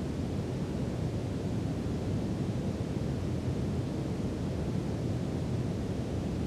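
Steady brown noise: an even, unchanging rumble-like hiss weighted toward the low end, with no events or changes.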